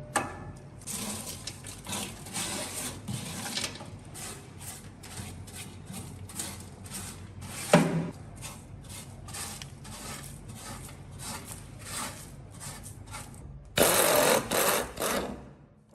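Repeated scraping strokes of a hand tool on a rusty microwave's metal, about two a second, with a louder, harsher stretch near the end.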